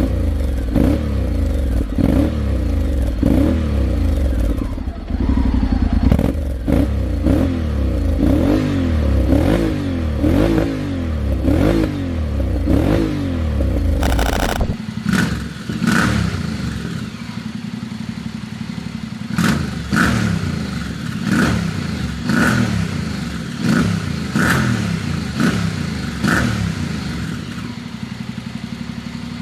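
Honda X-ADV 750 parallel-twin engine and exhaust revved in quick repeated blips, the pitch rising and falling about once a second. About halfway through, the sound changes abruptly and the deep low end drops away, and the blips go on with sharp clicks among them.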